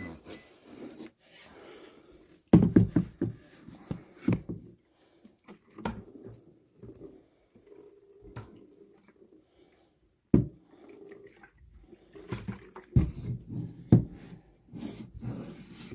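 Cold brew coffee maker being handled: irregular clunks and knocks in several clusters, with liquid splashing and dripping.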